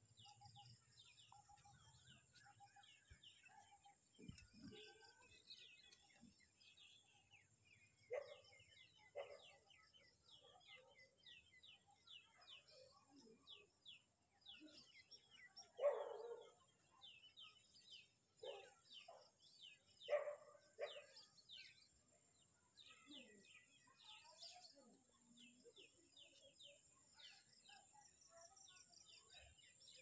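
Faint birdsong: many short, quickly falling chirps repeating throughout, with a few louder, lower calls between about eight and twenty-one seconds in.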